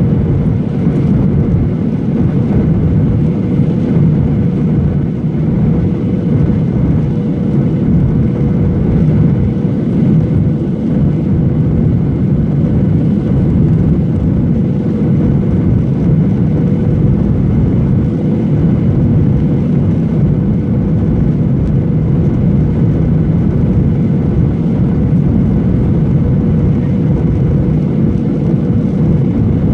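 Steady cabin noise of a Boeing 737-800 in flight, the rush of its CFM56 engines and airflow heard from inside the cabin, with a steady hum running through it.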